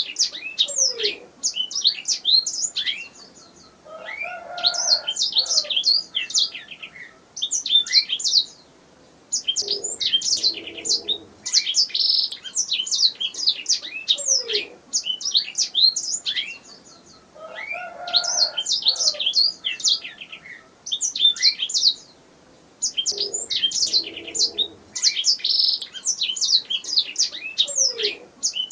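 Domestic canary singing: rapid high-pitched chirps and trills in phrases of a few seconds, broken by short pauses.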